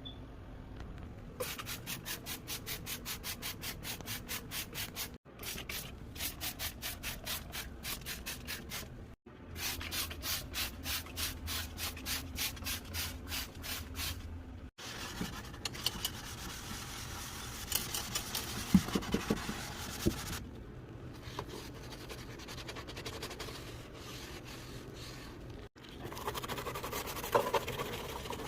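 Scrubbing during a refrigerator deep clean: brisk, even back-and-forth strokes, about four a second, in several short clips cut one after another. In the second half the rubbing and wiping turns slower and irregular, with a few sharp knocks.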